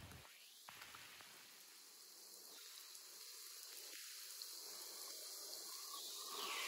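Faint rain falling steadily, slowly growing a little louder toward the end.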